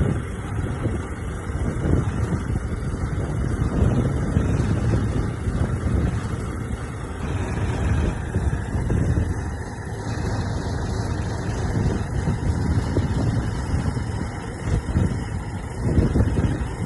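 Diesel engine of heavy earthmoving machinery running, its level rising and falling, with wind noise on the microphone.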